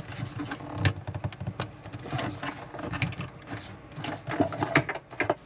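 Irregular knocks and scraping of a wooden floor board being worked into place.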